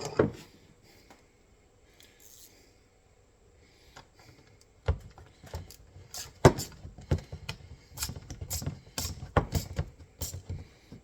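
Metal tools and steel trap parts clicking and clanking as bolts are tightened down on an MB-550 foothold trap's frame. The clicks come in an irregular run starting about halfway through, after a near-quiet start.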